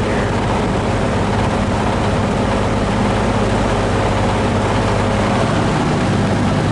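1960s GE W12 box fan running steadily in a window: a constant rush of air over a low motor hum. It runs a little wobbly, with one blade not mounted as evenly as the others, which sets the front grille vibrating.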